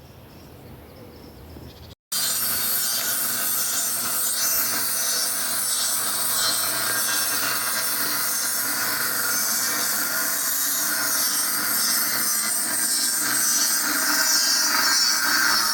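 A power tool runs steadily, cutting. It starts abruptly about two seconds in, after a stretch of quiet.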